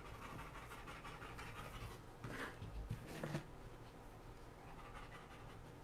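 A big dog panting faintly, hot after playing, with a few soft scratchy handling sounds around the middle.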